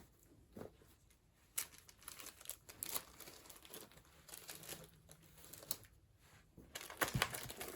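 Paper rustling and crinkling as handmade junk journals are handled, in short scattered rustles with a few soft clicks, busier near the end.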